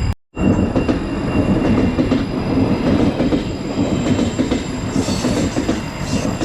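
Train passing over a level crossing, its wheels running loudly and steadily on the rails. The sound cuts out for a moment just after the start.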